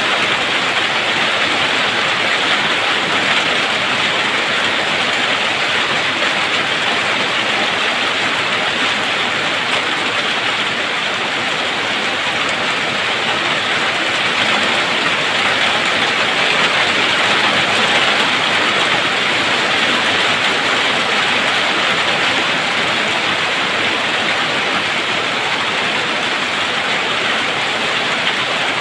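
Steady rain, an even loud hiss with no distinct calls or knocks standing out.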